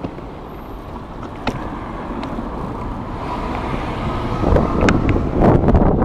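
Road traffic going past, with wind buffeting the microphone, growing louder over the last couple of seconds.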